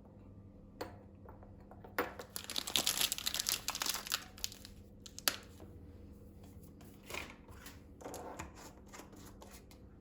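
Packaging crinkling as it is handled, loudest and densest about two to four and a half seconds in, with a sharp click and a few smaller crinkles and taps after.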